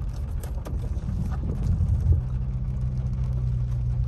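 Car engine idling with a steady low hum, heard from inside the cabin, while scattered raindrops tap on the roof and windshield. A short low rumble swells about a second and a half in.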